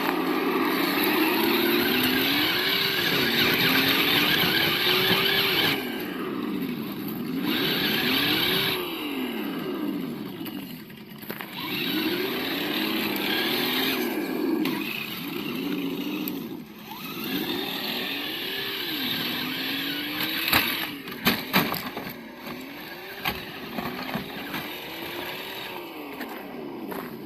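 An RC crawler's sound module playing a simulated engine note that revs up and down again and again with the throttle, over a hiss that rises and drops with it. A few sharp knocks come about three-quarters of the way through.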